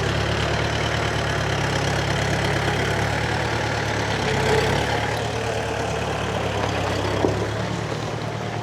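Vehicle engine running steadily at low revs, easing off slightly about five seconds in.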